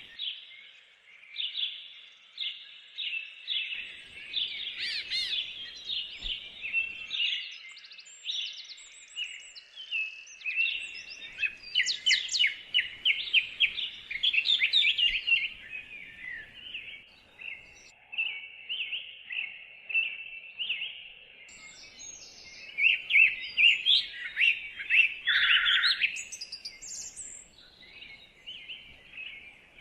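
Several songbirds singing and chirping over one another in woodland, a busy chorus of quick high trills and chirps, fuller in stretches and thinning toward the end.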